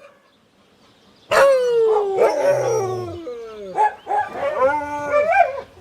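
Dogs howling and whining, starting about a second in: long calls that slide down in pitch, several overlapping, with shorter yelping cries after them.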